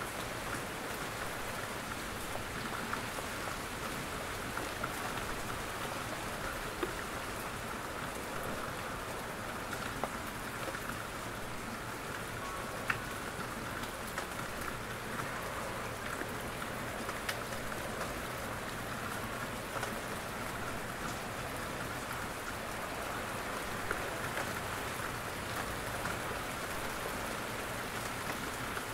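Steady rain falling in a forest, with drops from the trees landing on leaves and the ground and a sharper drop hit now and then.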